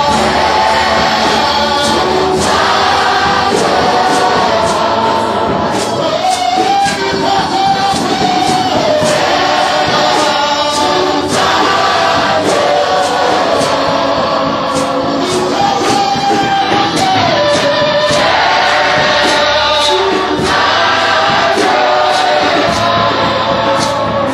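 Live gospel worship music: a choir and congregation singing over a full band.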